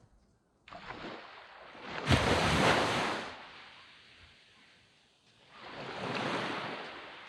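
Sea waves breaking on a sand beach: one wave crashes loudly about two seconds in and washes out, fading, and a second, softer wave breaks and washes up near the end.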